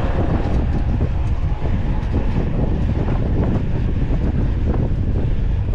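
Wind buffeting the microphone of a camera mounted on a moving mountain bike, with many small knocks and rattles from the bike running over rough trail.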